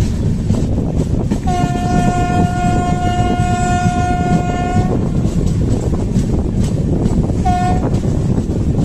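Passenger train running with a loud, steady rumble and rail clatter. The locomotive's horn sounds one long blast of about three and a half seconds, then a short blast near the end.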